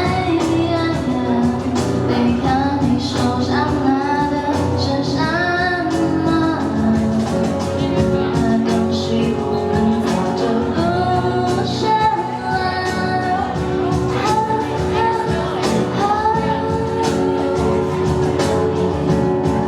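Live band performance: a female singer singing over guitar and a drum kit, with cymbal and drum hits throughout.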